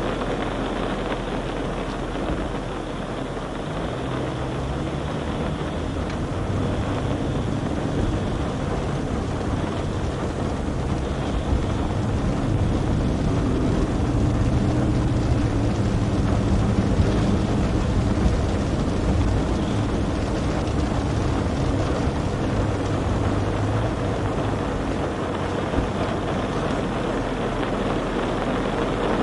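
A car driving: steady road noise with a low engine hum that rises and falls slowly in pitch, a little louder in the second half.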